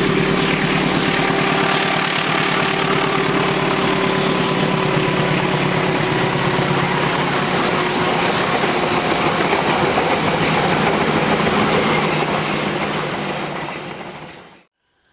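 Train passing close by: a loud steady rumble and rattle of wheels on the rails. It fades away from about twelve seconds in and then cuts off abruptly.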